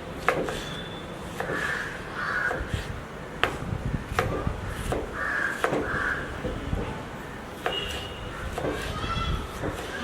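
Harsh bird calls, coming in pairs, with sharp knocks between them.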